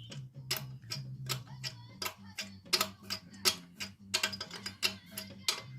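Sharp metal clicks, about three to four a second, of a spanner working on a Vespa PK scooter's exhaust fixings, over a steady low hum.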